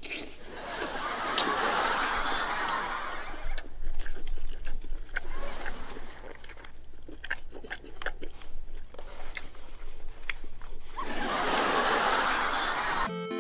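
Wet chewing and lip-smacking clicks of someone eating soft tuna-mayo rice by hand, with breathy laughter at the start and again near the end. A short music cue comes in just before the end.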